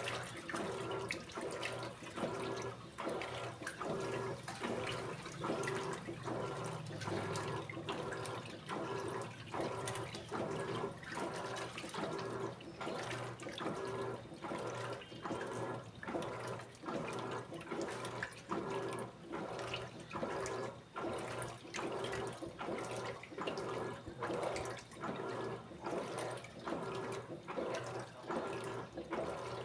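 Electrolux Essential Care 14 kg top-loading washing machine agitating a load of clothes in water, in normal agitation without turbo: regular back-and-forth sloshing strokes, roughly one to two a second, over a steady motor hum.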